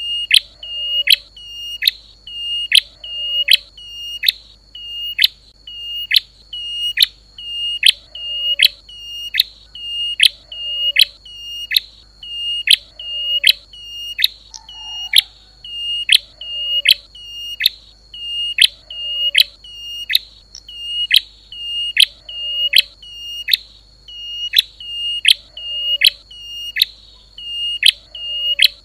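A small songbird repeating one sharp, high call about once a second. Each call sweeps steeply down and ends on a short held note, over a faint steady high tone. Fainter, lower chirps come in every couple of seconds.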